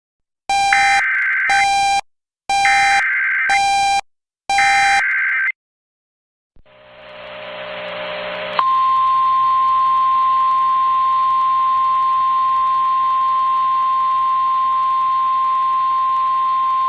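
Emergency Alert System warning broadcast: three short bursts of warbling data tones, then static that swells for about two seconds. After that comes a single steady high alert tone held for about nine seconds, the signal that a weather warning, here a tornado warning, is about to be read.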